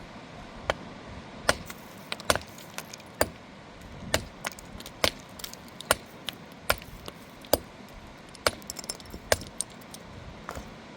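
Sharp clinks of hard objects striking, about a dozen at a steady pace of a little over one a second.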